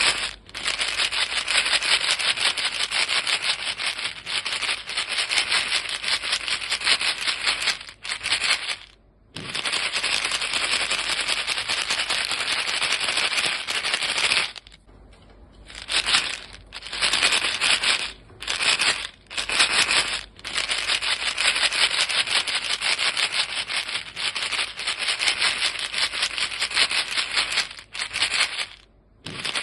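A box of chewing gum being shaken, the pieces rattling fast and densely against the box. It stops briefly several times, the longest pause about halfway through.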